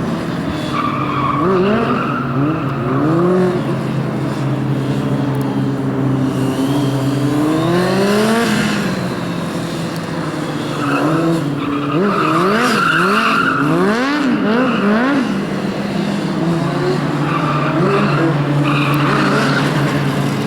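Drift motorcycle's engine revving up and down in quick repeated bursts while the rear tyre squeals and skids.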